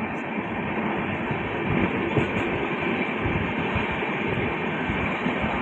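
Moving passenger train heard from inside the coach: a steady rumble and rattle of the carriage running on the track, with uneven low thuds.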